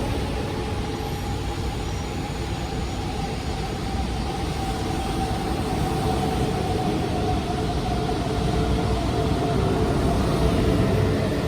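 Cabin noise of an E4 series shinkansen in motion, heard from inside the car: a steady rumble with a steady tone whose pitch sags slightly, growing a little louder near the end.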